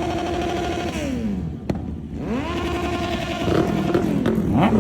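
Superbike engine revved twice: each time the pitch climbs, holds steady for about a second, then falls back. A sharp click comes between the two revs, and overlapping rising and falling revs follow near the end.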